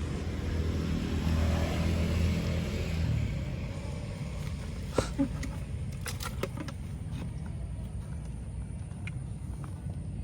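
An engine passes close by, its low hum swelling over the first two or three seconds and then fading out. A few sharp clicks follow about halfway through.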